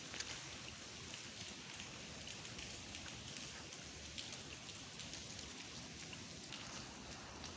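Steady rain falling, with many individual drops heard as sharp little ticks scattered through a constant hiss.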